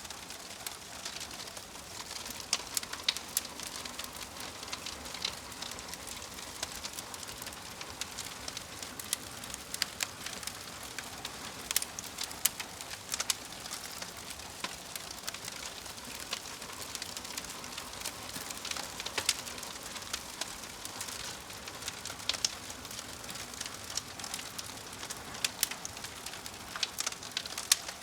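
Wood fire crackling: a steady hiss with frequent sharp pops and snaps at irregular intervals.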